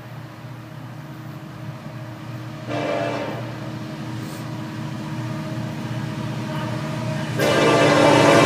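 Approaching Florida East Coast Railway diesel freight locomotive sounding its air horn: one short blast about three seconds in, then a long blast starting near the end, over a steady low rumble that grows louder as the train nears.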